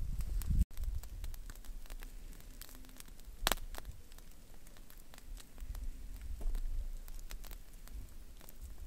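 Wood campfire crackling with scattered sharp pops, the loudest about three and a half seconds in.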